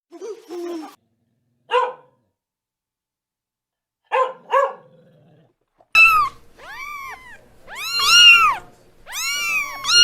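A dog gives a low growling call, then a single bark and two quick barks. About six seconds in, a cat takes over, meowing again and again in long calls that rise and fall in pitch.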